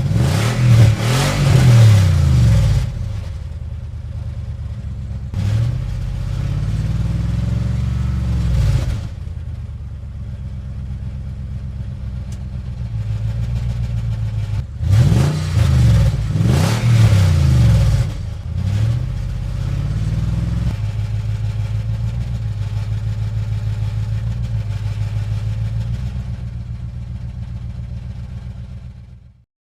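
Scale RC 4x4 truck's engine sound revving up and down several times, then running steadier at a low note.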